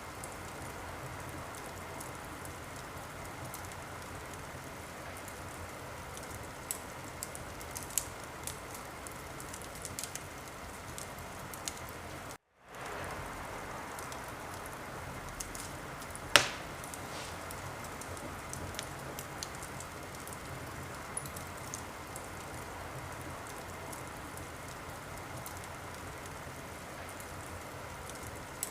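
Wood fire crackling in a fireplace: a steady hiss of burning logs with scattered small pops and one sharp, loud pop about sixteen seconds in. The sound drops out completely for a split second about twelve seconds in.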